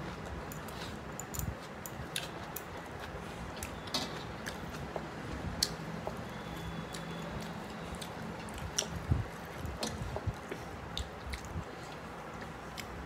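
Chewing and wet mouth clicks from eating mutton biryani, with a steady low hum underneath.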